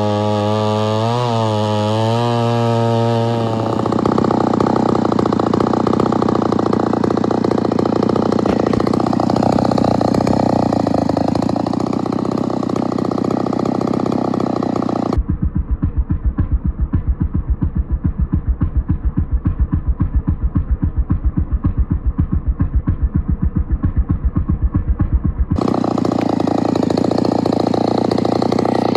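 Gasoline chainsaw with a freshly sharpened chain. It runs at a steady pitch for the first few seconds, then at full throttle as in a cut for about ten seconds. A muffled, evenly pulsing stretch of about ten seconds follows, and near the end it is back at full throttle.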